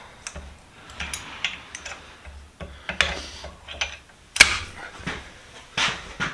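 Hand tools working metal on an old bench vise as its stuck base is being loosened: a run of irregular sharp metallic clicks and knocks, the loudest about four and a half seconds in.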